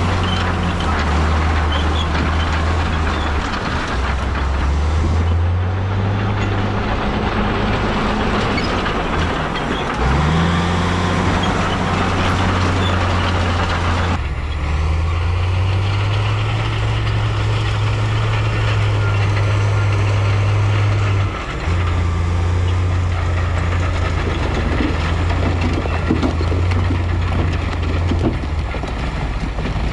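Heavy diesel earthmoving machinery running and revving under load, the engine pitch rising several times and holding between, over a steady rushing noise. The sound changes abruptly a little before halfway.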